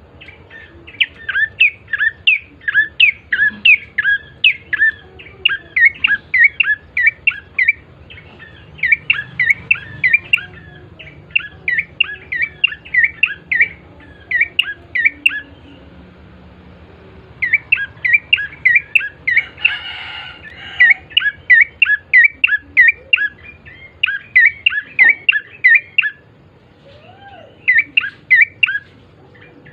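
Prenjak coki (a prinia) singing: rapid runs of sharp, high chirping notes in phrases of a second or two, broken by short pauses. A harsher, scratchier call comes about twenty seconds in.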